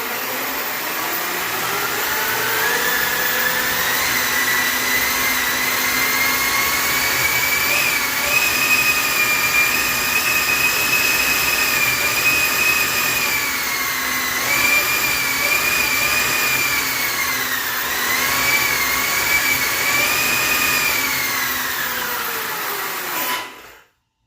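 Twin 120 mm HSD electric ducted fans running on the bench: a loud, high whine that rises as they spool up over the first few seconds, dips twice as the throttle is eased and reopened, then winds down near the end and cuts off suddenly.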